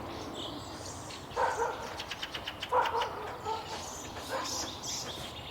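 A dog barking several times in short barks, not close.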